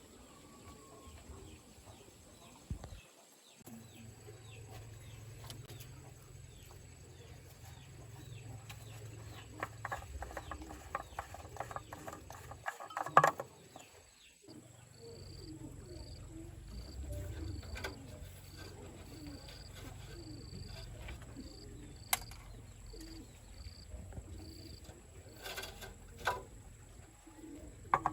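Birds calling, with a steady low hum beneath them and scattered knocks, the loudest about halfway through. In the second half a short high chirp repeats about every two-thirds of a second.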